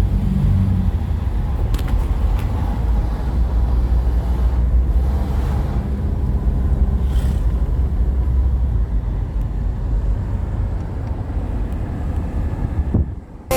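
A vehicle on the move: a steady low engine rumble with road and wind noise, which stops abruptly near the end.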